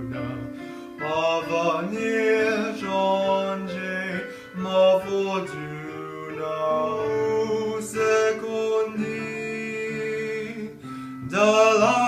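A solo voice singing a classical art song with piano accompaniment, in long, sustained phrases.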